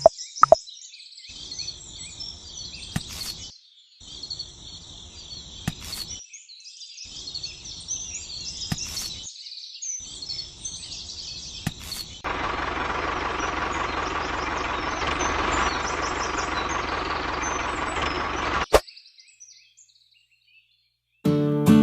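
Birds chirping and calling through several short clips that start and stop abruptly. Then comes a louder, steady hiss with a faint high whine, lasting about six seconds, which cuts off suddenly.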